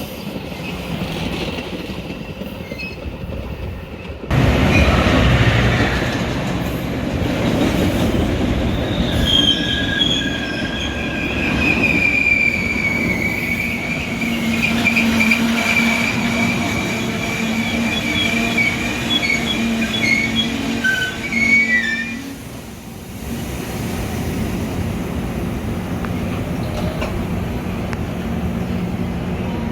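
Metra commuter train rolling on the rails, with its wheels squealing in high, wavering tones for much of the time. The noise jumps up suddenly a few seconds in, and the squeal cuts out about three-quarters of the way through, leaving a steadier rumble.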